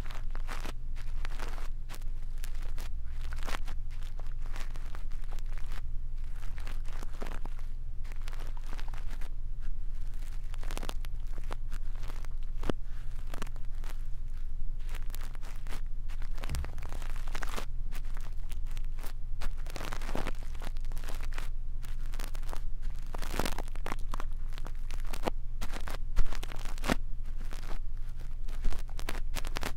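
ASMR ear cleaning with a brush: bristles scratching and rustling close against the microphone in quick, irregular crackly strokes, over a steady low hum.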